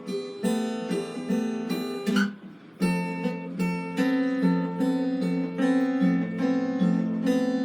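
Acoustic guitar playing strummed chords, a new chord about every half second, with a short break a little over two seconds in.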